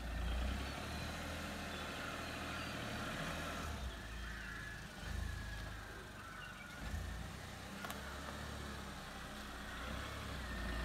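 A car engine running at low revs, a steady low rumble.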